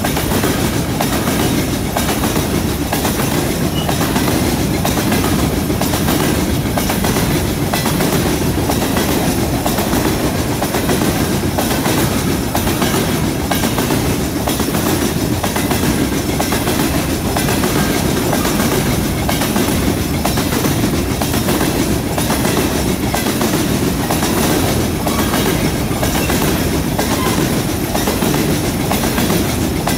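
Covered hopper cars of a long freight train rolling past close by: a steady rumble with the clickety-clack of steel wheels on the rails.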